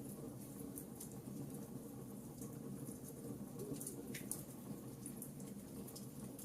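Wood campfire burning: scattered small crackles and pops over a steady low sound of the flames, with a sharper pop about four seconds in.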